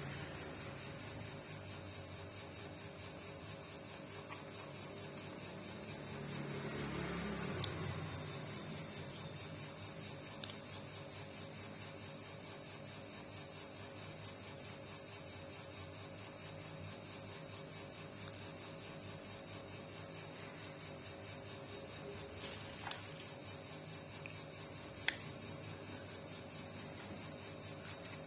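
Light handling noises during hand work on a sewing machine: a brief rubbing sound about seven seconds in and a few small clicks, over a faint steady hum.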